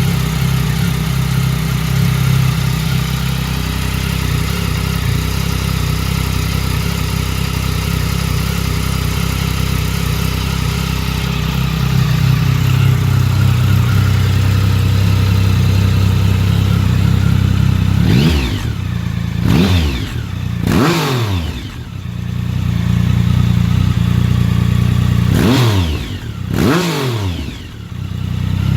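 2007 Triumph Tiger 1050's inline three-cylinder engine idling through an Arrow stainless full aftermarket exhaust system, then blipped four times in two pairs, each rev rising sharply and falling back to idle.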